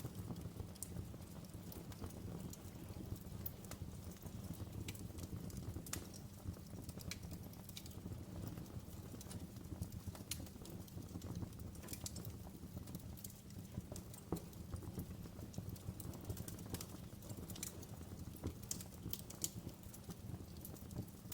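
Wood fire crackling in a fireplace: irregular sharp pops and snaps over a steady low background from the burning fire.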